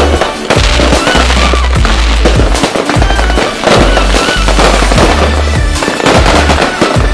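Fireworks bursting and crackling in quick succession, mixed with a loud music track that has long sustained bass notes.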